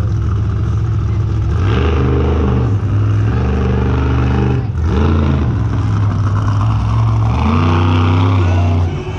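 Monster truck engine revving hard, its pitch climbing and falling in repeated steps, with a brief drop about halfway through and another near the end.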